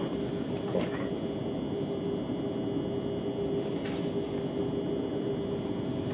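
Thameslink electric train running: a steady rumble with constant humming tones over it and a couple of faint clicks.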